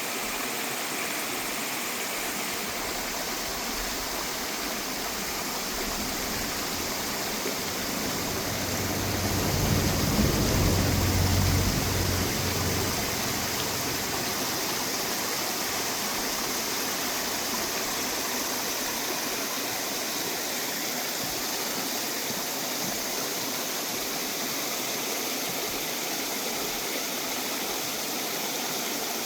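Mountain stream water rushing steadily over rocks. A low rumble swells and fades about ten seconds in.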